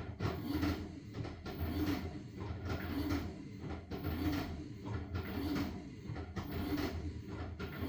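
LG washing machine's drum turning through a wash cycle, tumbling a load of blankets, with a swishing rhythm that repeats about once a second.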